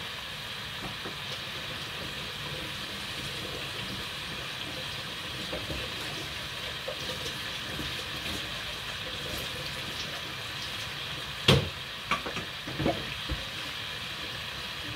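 Plantain pieces frying in a pot of hot oil: a steady sizzle. A few sharp kitchen clatters come about eleven and a half seconds in, the first the loudest.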